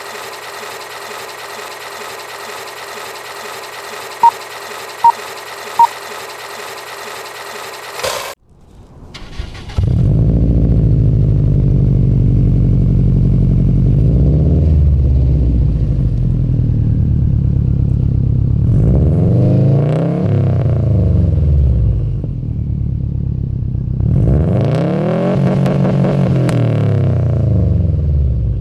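A steady buzzing tone with three short, loud beeps, then a cut. About ten seconds in, a 2008 Subaru WRX STi's turbocharged 2.5-litre flat-four starts through an Invidia N1 cat-back exhaust with a Cobb catted downpipe. It settles to idle and is revved three times, each rev rising and falling, the last one the longest.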